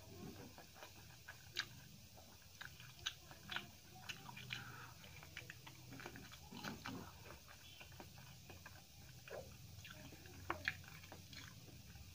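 Close-up eating sounds of a person eating rice and potato curry by hand: quiet chewing broken by sharp, crunchy bites every second or two, loudest twice in quick succession near the end.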